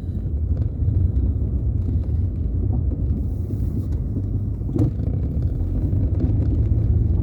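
Car heard from inside the cabin: a steady low rumble of engine and road noise, with a single click about five seconds in.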